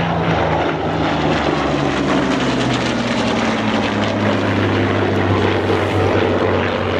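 A Goodyear FG-1D Corsair's 18-cylinder twin-row radial engine and a Spitfire Mk IX's Rolls-Royce Merlin V12 running together in a low pass, a deep radial drone under the higher Merlin note. The combined engine note drops in pitch between about one and three seconds in as the fighters go by.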